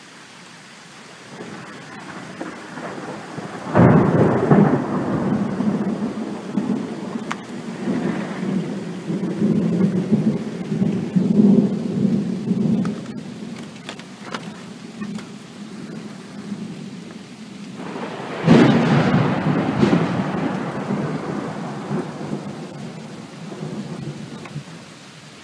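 Thunder over steady rain: a crack about four seconds in rolls into a long rumble lasting over ten seconds, then a second crack about eighteen seconds in rumbles and fades away.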